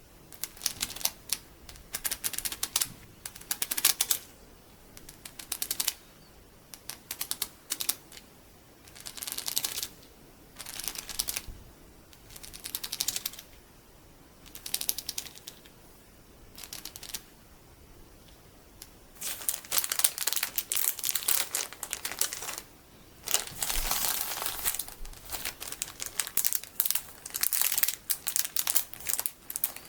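Loose sticky plastic beads handled in short bursts of quick, light clicking, about a second each with pauses between. About two-thirds of the way in this changes to near-continuous crinkling of plastic packaging with beads inside.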